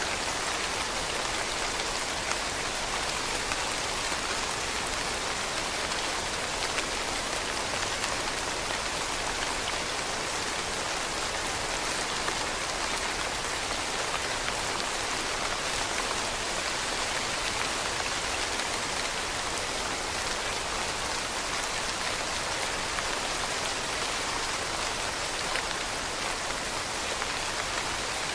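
Steady rain falling on leaves, a dense even patter of many small drops with no change in intensity.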